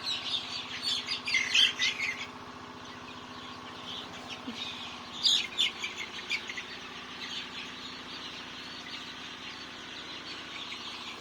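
A flock of chickens peeping in rapid, high chirps, densest and loudest in the first two seconds and again in a short burst about five seconds in, with a steady hum underneath.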